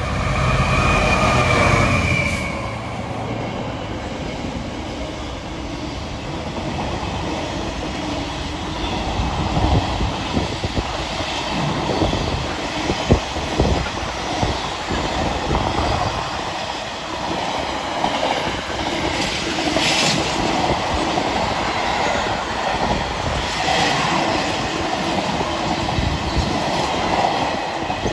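Class 66 diesel-hauled container freight train: a horn sounds for about two seconds at the start, then the long rake of container wagons rolls past, wheels clattering over the rail joints with clanks and brief wheel squeals.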